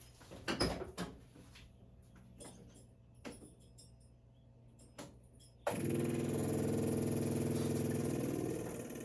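A few light clicks and knocks, then about two-thirds of the way in a Datsun Bluebird 411's Nissan J-type four-cylinder engine, running on an MGB intake manifold and a copy Weber carburettor, comes in suddenly and runs steadily. Its level drops noticeably near the end.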